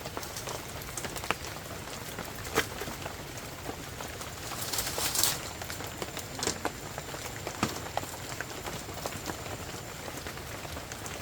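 Heavy rain falling steadily, with scattered heavier drops striking close by and a brief louder rush of rain noise about five seconds in.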